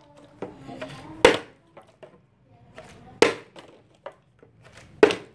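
A plastic water bottle being flipped and landing hard on a surface: three sharp knocks about two seconds apart, the last the loudest.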